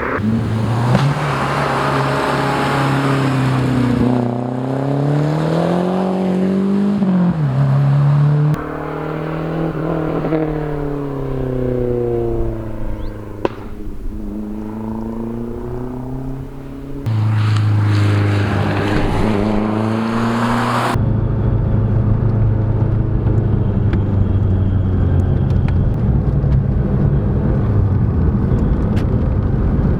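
Lancia Delta Integrale's turbocharged four-cylinder engine pulling through the gears, its pitch climbing and dropping at each shift and falling away as it slows, in several clips cut together. It ends in a steady drone at constant speed.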